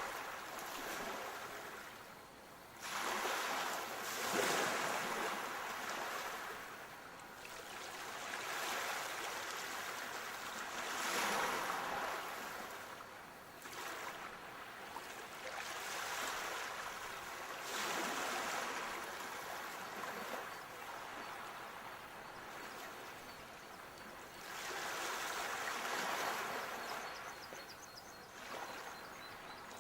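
Sea waves breaking and washing up the shore, the surf swelling and fading every few seconds.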